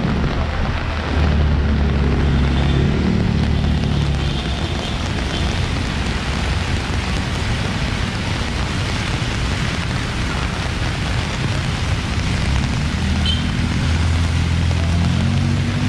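Heavy rain pouring onto a wet street, a steady dense hiss, with the low rumble of road traffic passing close by, strongest about a second in and again near the end.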